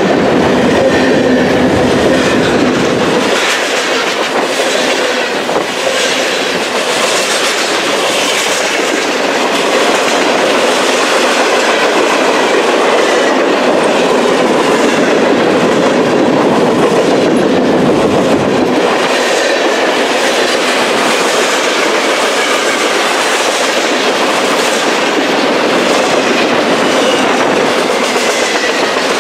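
A train rolling past on the BNSF main line, a steady loud rumble with the wheels clicking rhythmically over the rail joints. A deeper rumble comes in during the first few seconds and again about eighteen seconds in.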